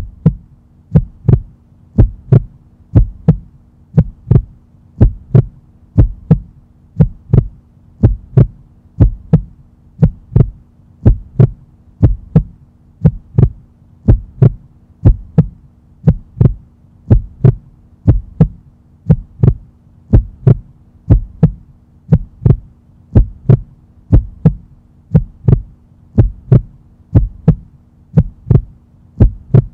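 A steady, heartbeat-like thumping pulse, about two beats a second, over a low steady hum, as a beat laid over a workout break.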